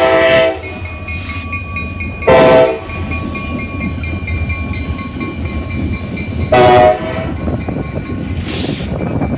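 Three Wheeling & Lake Erie EMD SD40-2 diesel locomotives running light, with a steady low engine rumble. The lead unit's air horn sounds a long blast that ends about half a second in, then two shorter blasts a few seconds apart.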